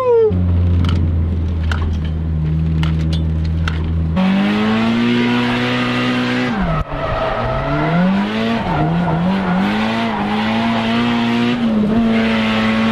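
Nissan Silvia S15 drift car's engine held at low revs for about four seconds, then revved up and held high, with a brief drop near seven seconds and wavering revs after it. The driver says straight afterwards that the clutch is slipping.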